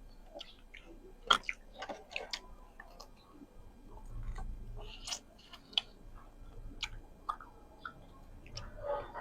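A person eating close to the microphone: chewing and mouth smacks, with scattered short sharp clicks.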